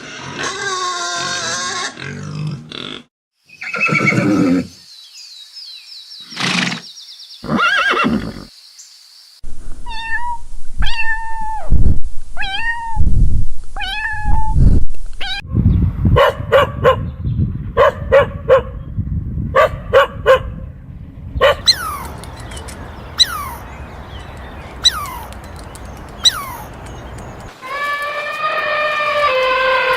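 A string of different animal calls, one clip after another: drawn-out pitched calls in the first few seconds, a run of short chirping calls falling in pitch in the middle, then clicks and sharp knocks, and another drawn-out call near the end.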